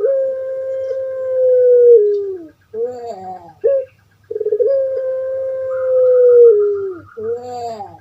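Puter pelung dove (Streptopelia risoria) singing its long call: two long, drawn-out coos that slide down in pitch at the end, with shorter wavering notes in between. A faint low hum sits under the calls.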